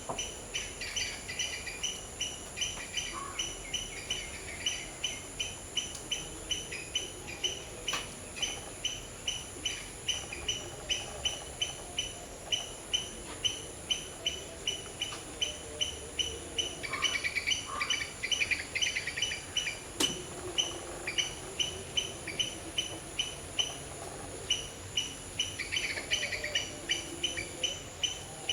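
Outdoor ambience of small birds and insects: a short high chirp repeats about twice a second throughout over a steady high insect hiss, with bursts of fast bird twittering about a second in, around the middle and near the end.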